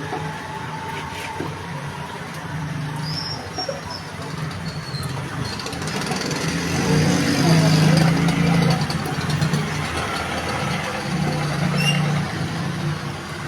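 Road traffic: motor vehicle engines running and passing, swelling loudest about seven to nine seconds in and again around twelve seconds, with a faint high squeal early on.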